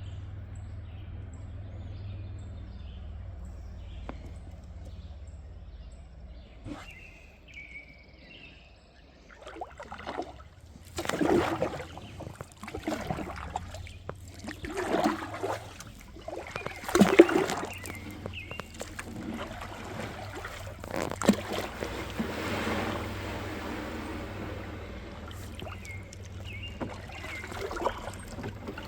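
Kayak paddle dipping and splashing in river water, with water sloshing and trickling, in an irregular run of strokes from about ten seconds in that eases off a little after twenty seconds. A low steady rumble runs underneath.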